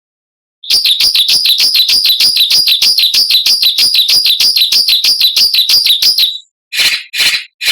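Songbird giving a harsh, rasping 'besetan' call: a fast run of evenly repeated high notes, about five a second, for some six seconds, then three short separate rasps near the end.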